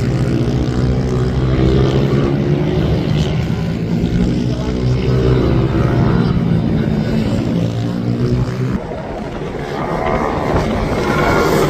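Minibike racing engines running at high revs as the bikes pass, their pitch rising and falling. The sound drops suddenly about nine seconds in, then builds again.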